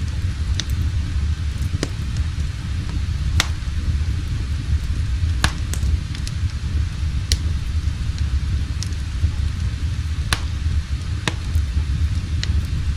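Wood fire crackling in a fireplace: irregular sharp pops, roughly one every second, over a steady low rumble.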